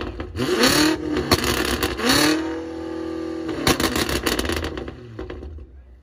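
A car engine revving in short blips that rise and fall, then held high for about a second and a half before dropping, with a rapid crackle as the revs fall; the sound fades away near the end.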